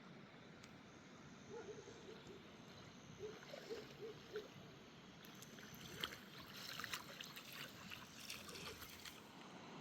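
Faint trickling water, with a few short, quiet clicks and blips over it.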